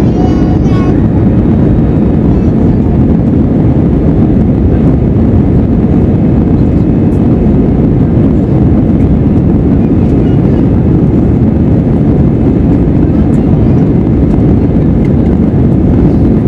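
Airbus A320 airliner during takeoff, heard from inside the cabin: a loud, steady low rumble of the jet engines and rushing air.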